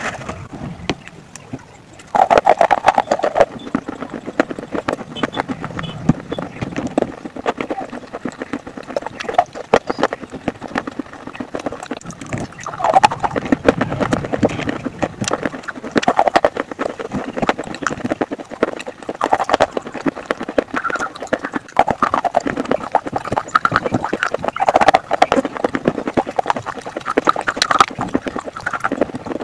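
Close-up mouth sounds of slate pencils being bitten and chewed: dense gritty crackling, with a louder crunching bite every few seconds.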